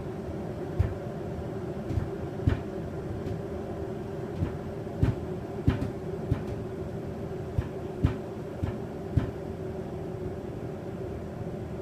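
Aicok electric kettle heating water toward the boil: a steady rumble with about a dozen irregular sharp pops and ticks.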